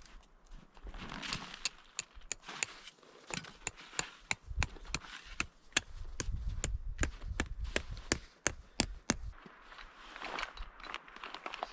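Wood being chopped: a rapid, irregular series of sharp knocks, about two or three a second, stopping a couple of seconds before the end.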